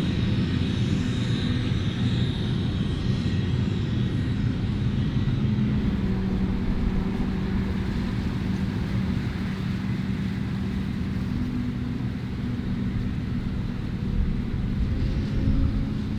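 Heavy diesel farm machinery of a maize silage harvest running steadily, a deep engine drone with a high whine over it in the first few seconds; the sound shifts about six seconds in.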